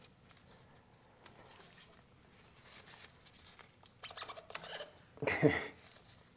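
Light clicks and scrapes of hand tools and metal parts being handled, getting busier about four seconds in, followed near the end by a short vocal grunt that falls in pitch.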